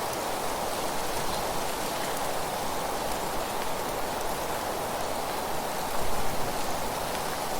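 Wind blowing through leaves and stirring fallen leaves: a steady rustling rush with no birdsong heard, swelling briefly about six seconds in.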